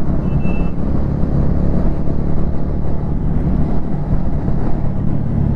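Motorcycle engine at a steady cruise under a constant rush of wind and road noise, the engine note holding level without revving. A short high beep sounds just after the start.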